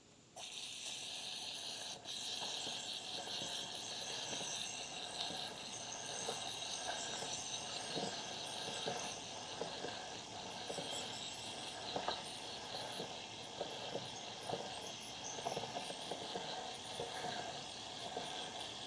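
Aerosol can of WD-40-style lubricant spraying onto a motorcycle chain: a steady hiss that starts suddenly, breaks off briefly about two seconds in, then runs on, with a few faint clicks.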